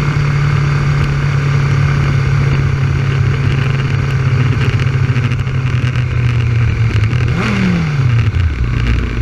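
Yamaha R6 inline-four sport bike engine running at a steady speed with a rush of wind noise, then about seven and a half seconds in a brief rev that falls away quickly as the throttle closes, settling to a low, steady run.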